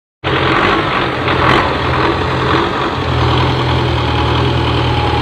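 Belarus tractor's diesel engine running steadily at low revs, its low note settling and evening out about three seconds in.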